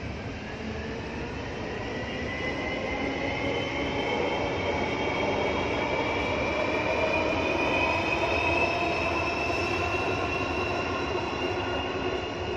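Electric train passing along an elevated viaduct, its motors giving a whine that rises slowly and steadily in pitch over a low rumble. It grows louder towards the middle and eases off slightly near the end.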